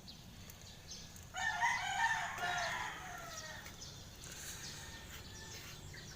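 A rooster crows once, starting about a second in and lasting under two seconds.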